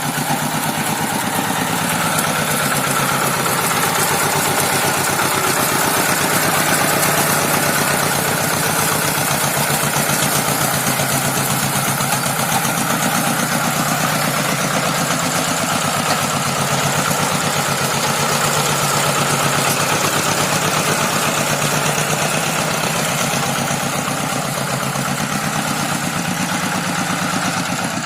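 Rice-paddy tractor engine running steadily under load as it levels the field, with an even, rapid firing pulse.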